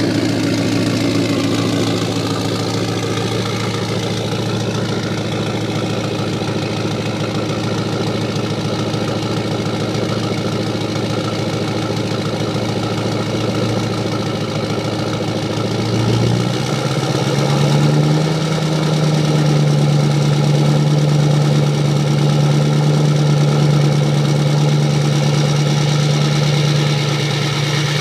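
Ford 6.0 Power Stroke turbo-diesel V8 idling steadily shortly after a cold start. About 16 seconds in, the engine speed rises and settles into a higher, steady idle.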